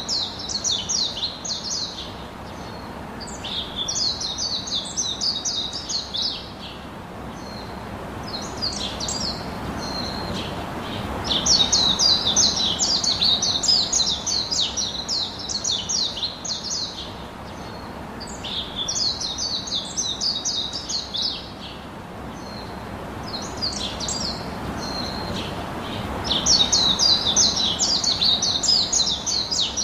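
Small birds chirping in rapid, high-pitched runs of notes a few seconds long, with short pauses between the runs, over a steady background hiss.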